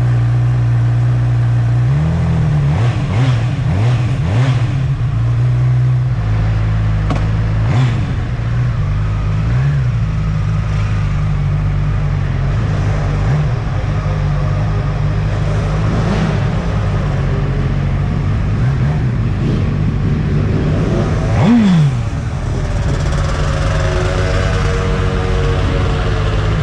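Honda CB1000R inline-four engine idling through an Akrapovic silencer, blipped on the throttle several times. The biggest rev comes about twenty seconds in.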